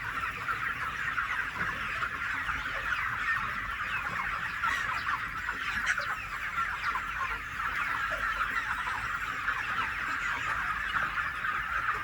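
A large flock of chickens clucking and calling, many short calls overlapping into a steady din.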